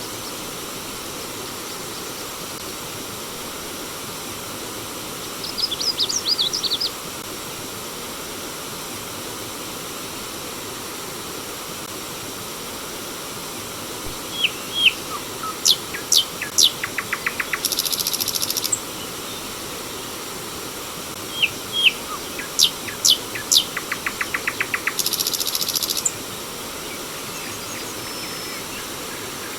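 Steady rush of flowing water with a bird singing over it: a quick burst of chirps about six seconds in, then twice a song of sharp high whistles ending in a fast buzzy trill, around the middle and again a little later.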